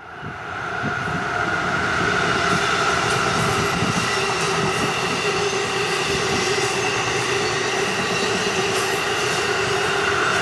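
Passenger train running on the rails, a steady high whine over the rumble and clatter of its wheels.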